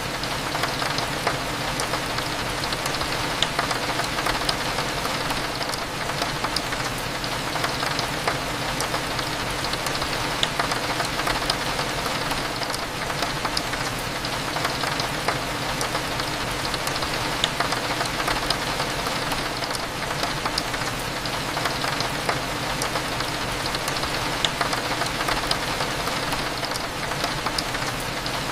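Steady rain falling on window glass, with many small drop ticks over a low steady hum of cafe ambience.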